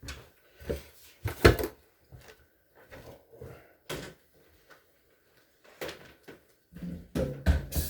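Irregular knocks and clunks of things being handled. The loudest comes about a second and a half in, and several follow in quick succession near the end.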